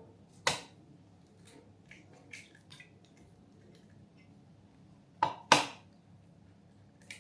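Eggs being knocked against the edge of a bowl to crack them for an omelette: one sharp knock about half a second in and two quick knocks near the five-second mark, with a few faint clicks between.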